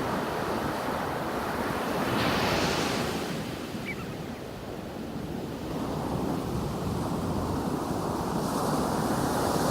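Ocean surf washing onto the beach, a continuous rush that swells about two seconds in, eases off in the middle and builds again near the end, with wind buffeting the microphone.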